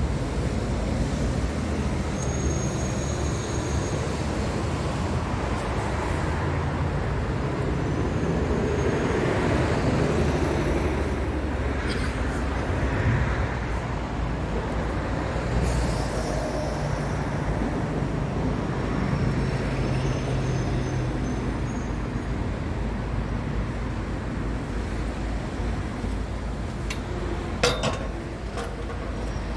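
Mid-size generator's engine running steadily, a continuous low drone. A couple of sharp clicks near the end.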